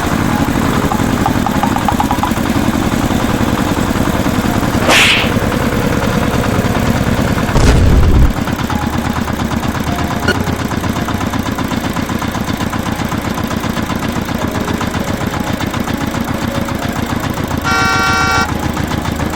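A tractor engine running steadily with a fast, even chugging rhythm. A short rising whoosh comes about five seconds in, a loud low thump about eight seconds in, and a short horn honk near the end.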